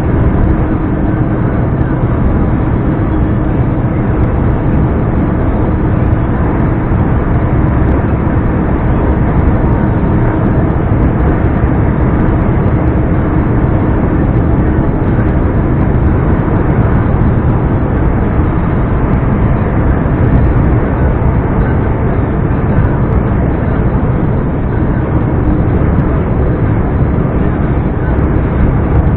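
Scania R420 truck's 12-litre straight-six diesel engine running steadily on the move, mixed with road noise, with a constant hum and no revving up or down.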